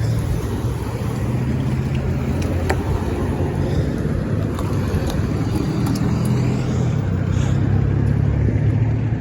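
A vehicle engine running steadily, a low hum, with road traffic noise.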